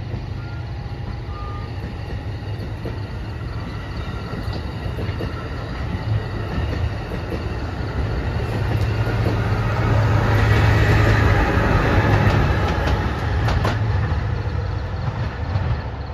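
Bilevel passenger train passing at speed: a steady rumble of wheels on rail over a low hum. It grows louder to a peak around ten to thirteen seconds in, with a few sharp clicks, then eases as the last car goes by.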